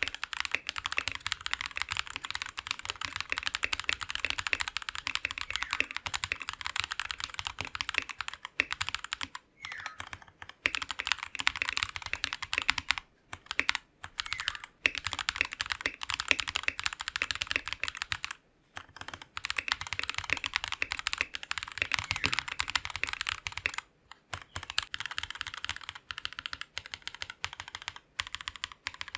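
Fast, continuous typing on a VX5 mechanical keyboard with KTT Grapefruit switches: a dense run of key clacks, broken by a few brief pauses.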